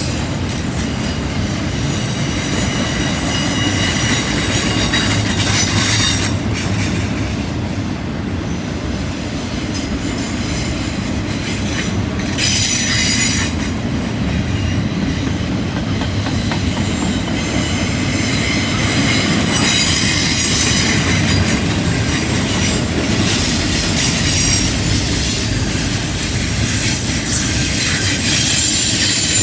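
Double-stack intermodal freight train rolling by on a curve: a steady rumble of wheels on rail, with high-pitched wheel squeal that comes and goes as the wheel flanges grind against the curved rail.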